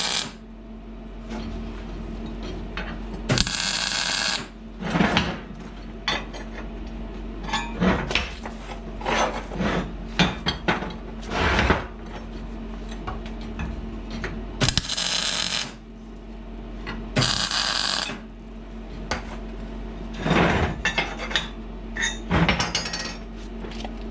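MIG welder laying several short tack welds of about a second each, crackling, between knocks and clanks of steel flat bar being handled and tapped.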